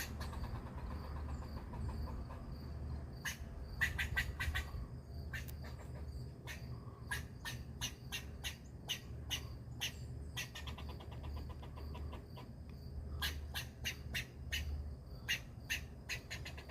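A bird giving short, sharp calls in irregular clusters, at one point a quick run of ticking notes, over a steady low rumble.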